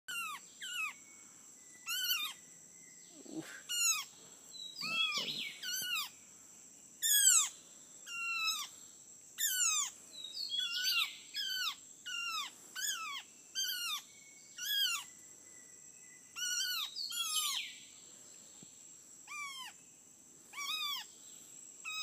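Bird tangled in a mist net giving repeated harsh distress calls while being worked free, each note dropping in pitch, one or two a second with short pauses.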